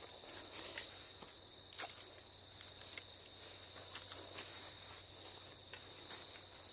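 Slow, cautious footsteps crunching through dry fallen leaves, a few irregular soft crackles. A steady thin high-pitched tone runs underneath.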